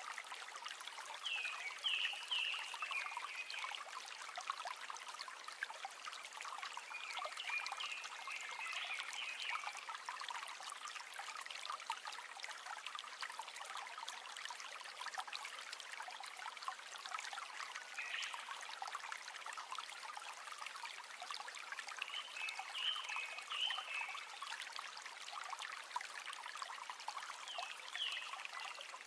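River water running and trickling steadily over stones. A few short, high chirps recur every several seconds.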